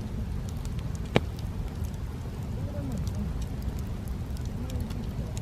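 Wood campfire burning with a steady low rumble and scattered sharp crackles, with one loud pop about a second in.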